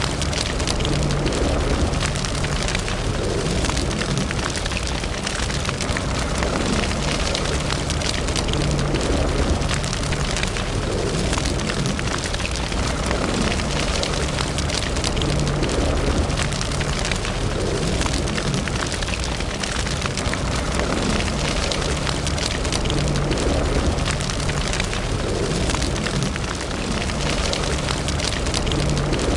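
Wood fire burning in a fireplace: a steady low rumble of flames with dense, continuous crackling and small pops.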